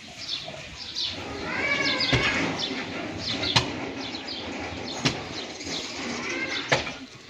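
Birds chirping over and over, short pitched calls that rise and fall, with four sharp clicks spread through.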